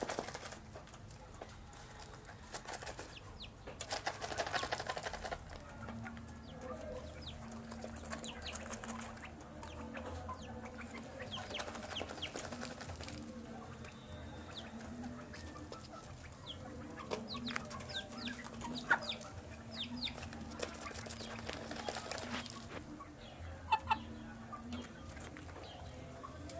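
Young chickens peeping as they feed, short high calls coming thick and irregular, with a few bursts of rustling noise.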